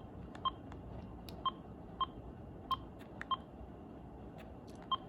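Keypad beeps from an AT&T E580-2 cordless phone handset as its buttons are pressed to step through the menu: about seven short, identical beeps at an uneven pace, with faint clicks of the keys between them.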